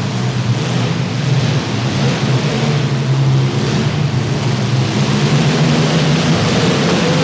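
Compact demolition derby cars' engines running, a loud, steady engine drone over a wash of noise.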